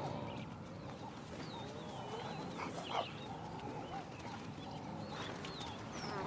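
African wild dogs calling at a kill: many short, high-pitched chirps and twitters, with wavering lower calls and one louder call about three seconds in.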